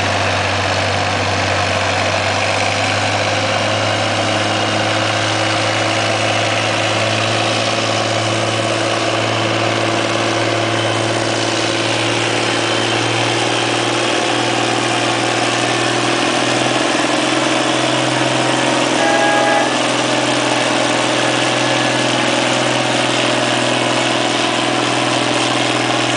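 International Harvester 1066 tractor's turbocharged six-cylinder diesel running steadily. A brief higher-pitched tone sounds about three-quarters of the way through.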